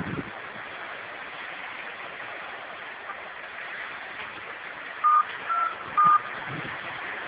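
Touch-tone keypad being dialled: three short dual-tone beeps about half a second apart, starting about five seconds in, over a steady rushing noise.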